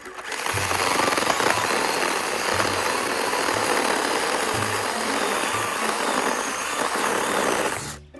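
Power saw cutting through a log: a loud, steady, unpitched noise that starts abruptly and cuts off just before the end, with faint background music underneath.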